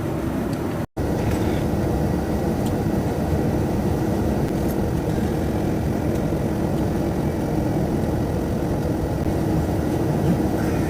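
Steady cabin noise of a Boeing 787-9 airliner in cruise: a constant low rush of airflow and engine noise, broken by a very brief dropout about a second in.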